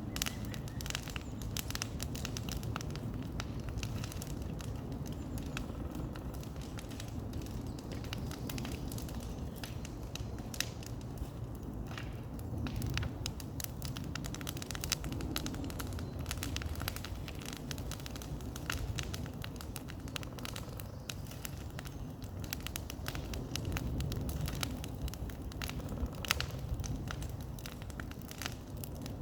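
Bonfire burning, the wood crackling and popping in frequent sharp snaps over a steady low rumble.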